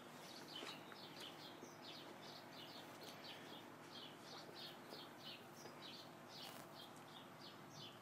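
Faint birdsong: a steady run of short, high, falling chirps, about three a second.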